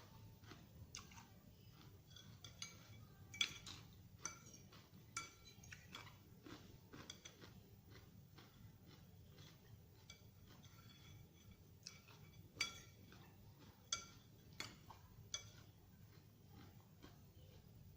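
Eating utensils clinking and scraping against a dish while salad is eaten: scattered sharp clinks, a few with a short ring, the loudest about three and a half seconds in and again twice near two-thirds of the way through, between faint chewing.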